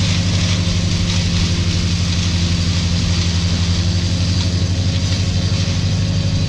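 Large engine running steadily at idle, a low hum with an even, rapid throb.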